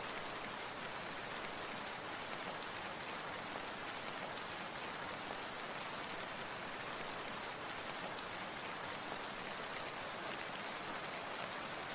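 Steady rain falling on a surface, an even hiss of countless small drops that holds constant throughout.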